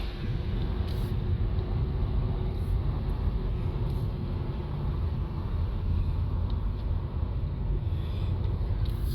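Car driving along a road: a steady low rumble of engine and road noise with a faint steady hum.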